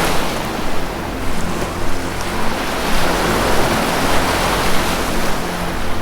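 Ocean surf washing in, one wave building to a swell about halfway through and then receding, over a faint low steady music drone.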